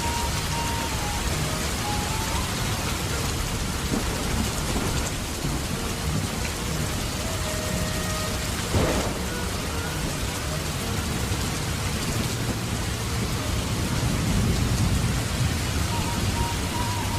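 Heavy rain falling steadily, with a deep rumble that swells about fourteen seconds in and a single sharp knock about nine seconds in.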